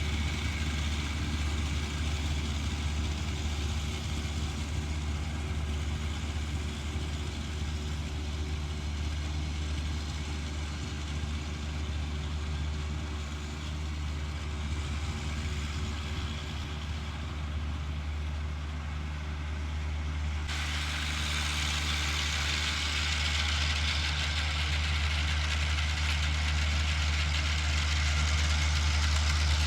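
John Deere 1025R compact tractor's three-cylinder diesel engine running steadily with a low, even hum. About two-thirds of the way through, a steady rushing noise starts abruptly on top of the engine and carries on.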